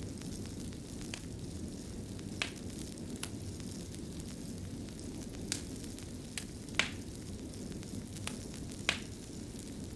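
Wood fire burning in a fireplace: a steady low rumble with scattered sharp crackles and pops, the loudest about two-thirds of the way through.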